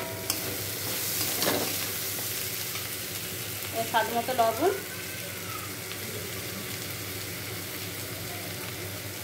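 Onions, garlic paste and ginger paste sizzling in hot oil in a metal kadai, stirred with a metal spatula, with a few sharp clicks of the spatula against the pan near the start. A short pitched squeak about four seconds in is the loudest sound.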